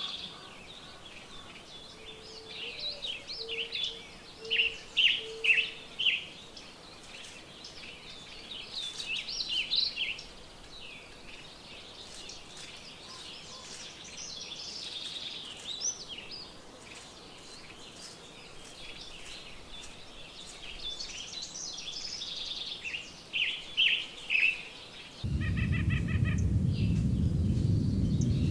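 Several wild songbirds singing and calling, with many short high chirps and trills. About 25 seconds in, a low rushing noise starts suddenly and runs on under the birds.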